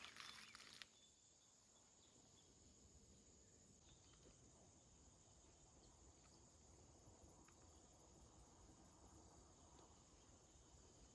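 Faint, steady high-pitched chorus of insects, with a brief rustle that stops about a second in.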